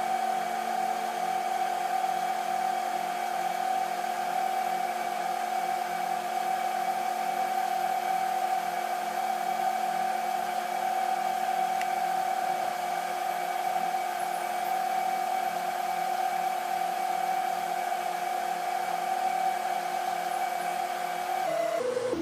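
Steady whirring hum of a small electric motor, like a fan or hair dryer. Its pitch drops quickly as it winds down near the end.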